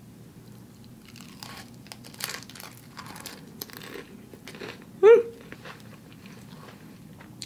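A person chewing and biting into food, with scattered crunches. About five seconds in comes one short, loud vocal sound from the eater, the loudest thing here.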